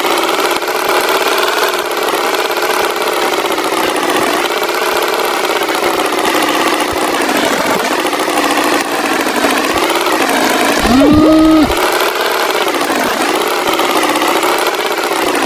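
Cartoon tractor engine sound effect running steadily with a wavering pitch, and a short pitched tone that rises and then holds for under a second about eleven seconds in.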